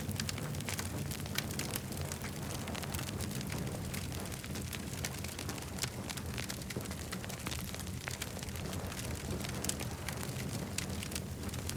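Campfire burning and crackling, with frequent sharp pops and snaps over a steady low rumble.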